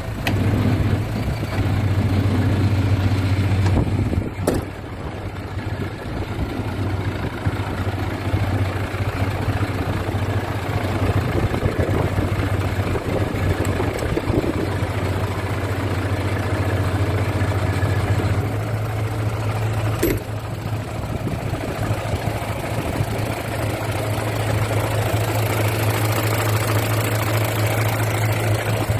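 Mitsubishi Fuso Fighter's 6D17 straight-six diesel engine idling steadily, with two brief sharp clicks, one about four seconds in and one about twenty seconds in.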